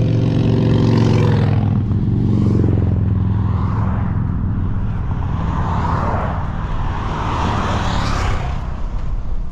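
Four-wheel-drive truck being driven: a steady engine hum that drops in pitch about two seconds in, with rising road and tyre noise in the later seconds.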